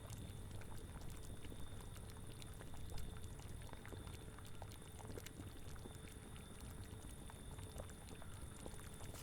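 Cauldron of liquid boiling and bubbling, with many small irregular pops over a low steady rumble.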